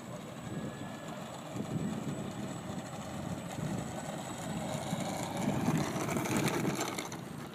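Wind buffeting the microphone over the whirr of an electric RC model plane's motor and APC 10x10E propeller (ParkZone T-28 Trojan), getting louder and brighter about five to seven seconds in before easing off.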